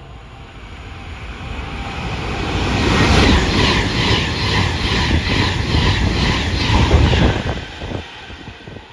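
A train passing at speed: it builds up over the first few seconds, stays loud with a regular beat about twice a second, then dies away near the end.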